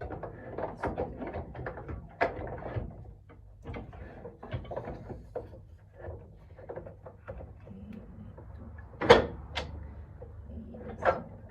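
Clatter and knocks of marimba frame parts being handled and fitted together during assembly. Two sharp knocks come about nine seconds in and another near the end.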